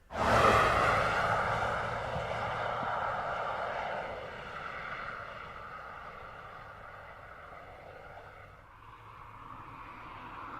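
A car driving by: engine and road noise that come in suddenly and loud, fade away over several seconds, then build again near the end.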